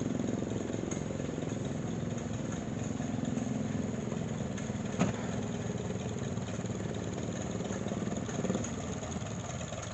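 An engine idling steadily, its firing pulses even, with a single sharp click about five seconds in.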